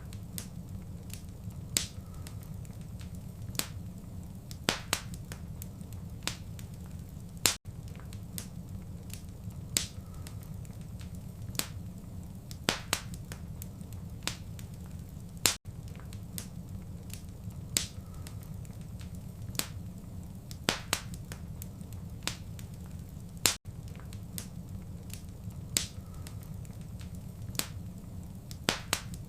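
Wood fire crackling in a fireplace: irregular sharp pops and snaps, a few each second, over a steady low rumble of flames. The sound cuts out very briefly about every eight seconds.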